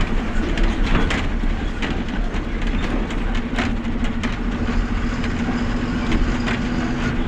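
Truck engine running steadily with a constant low hum, with scattered knocks and rattles over it.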